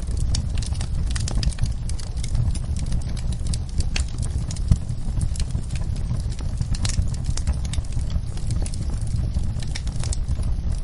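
Fire in a fireplace crackling and popping in quick, irregular clicks over a low, steady rumble.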